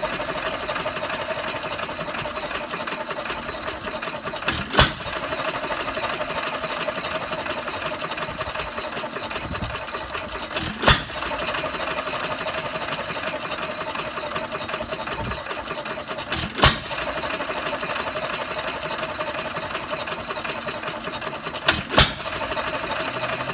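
1 1/2 hp Hercules hit-and-miss single-cylinder engine running under its governor: a steady rhythmic clatter as it coasts, broken by four sharp firing pops about six seconds apart.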